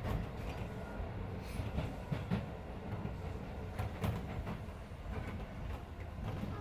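Keisei 3400 series electric train running, heard from inside a passenger car: a steady low rumble of wheels on rail with a few sharp, irregular clacks over rail joints.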